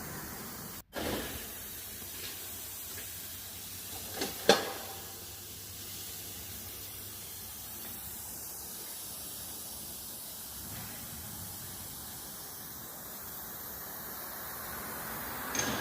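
Steady hiss with a few sharp clicks, the loudest about four and a half seconds in, and a brief drop-out of the sound about a second in.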